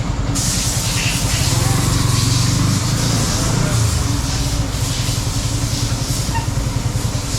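Yamaha R15 motorcycle's single-cylinder engine running steadily while riding, with wind rushing over the microphone.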